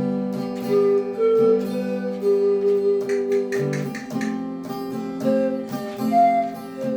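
Pan flute playing a slow melody of held notes over strummed acoustic guitar chords.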